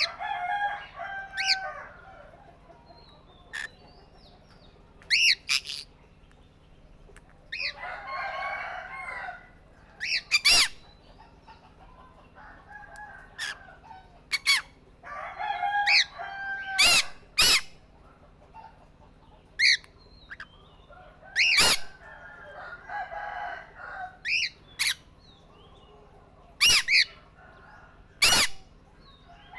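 Pet parrots calling: short, shrill squawks every second or two, between a few longer stretches of lower, busier chattering calls.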